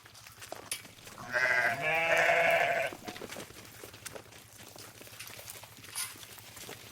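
A sheep bleating once, a loud wavering call lasting about a second and a half, starting a little over a second in.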